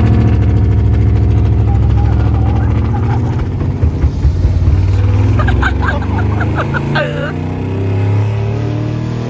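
Pickup truck V8 engine running hard under throttle, loud and steady, starting abruptly just before this stretch and easing slightly near the end.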